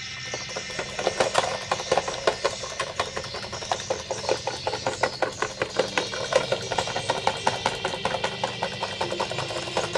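Electric fan running with a broken blade, wobbling and knocking in a quick, uneven rattle over a steady motor hum.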